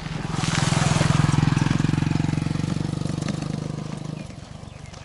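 Motorcycle engine passing by, a rapid pulsing engine note that grows louder, peaks about a second or two in, then fades away.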